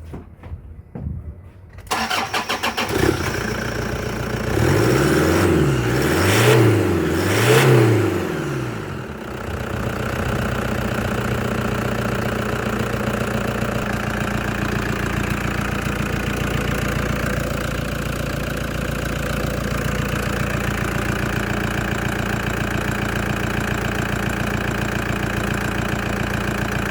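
A 2011 Toyota Hilux engine being tested: it cranks and starts about two seconds in, is blipped three times with the revs rising and falling, then settles into a steady idle.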